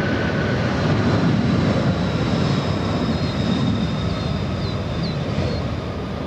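Boeing 747 freighter's four jet engines at takeoff power on departure: a loud steady rumble with a thin high whine over it, easing slightly toward the end.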